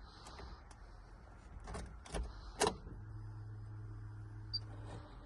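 Suzuki Jimny JA11 being readied to start: a few sharp clicks, then a steady low electric hum for about two seconds, which stops just before the engine is cranked.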